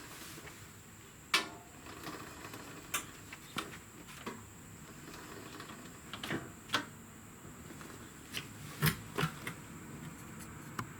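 Scattered light clicks and knocks from parts or tools being handled, about a dozen spread irregularly, the sharpest near the start and about two-thirds of the way through. They sit over faint steady background noise with a thin high steady tone.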